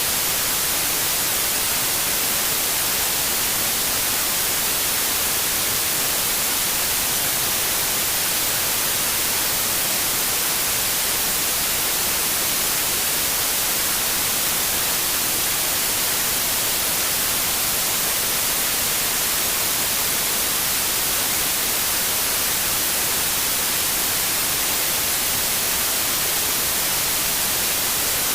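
Steady white noise: an even hiss, strongest in the high frequencies, that holds one level without any change.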